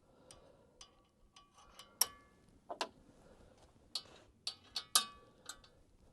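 Irregular metallic clinks and taps, each with a short ringing tone, about a dozen over a few seconds; the loudest come about two and five seconds in.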